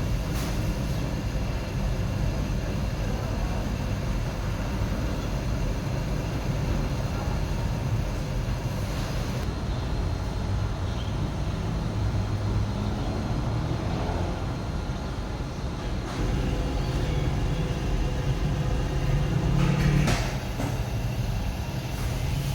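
Huebsch washing machine running with a steady low rumble, with a few sharp clunks about twenty seconds in.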